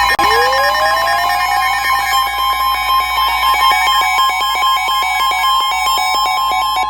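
NOAA Weather Radio warning alert tone, a steady high tone with a lower tone beside it, sounding through a radio receiver with faint crackle. It signals that a warning broadcast, here a severe thunderstorm warning, is about to follow.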